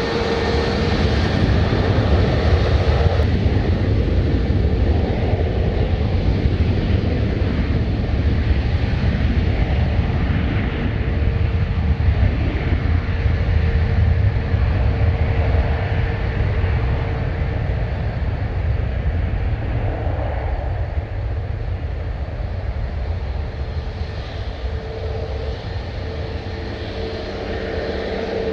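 Jet airliner engines running with a deep rumble and a steady whine, easing off a little past the middle and building again near the end.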